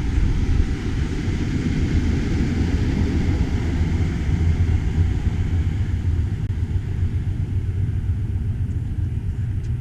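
Standing Amtrak passenger train's diesel locomotive idling: a steady low rumble with a faint hum.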